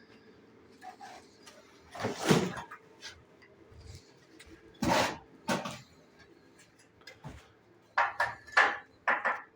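A few short scrapes and knocks, likely hands and tools moving brick and masonry material: one about two seconds in, two around the middle, and a cluster near the end. A faint steady hum runs beneath them.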